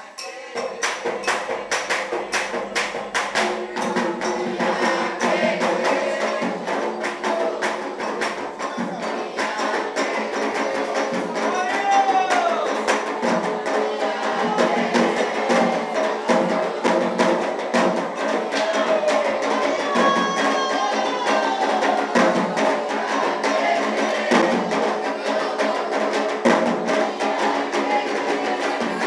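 Afro-Brazilian ritual drumming: fast, steady hand-drum strokes with a bright wood-block-like beat, and voices singing over it.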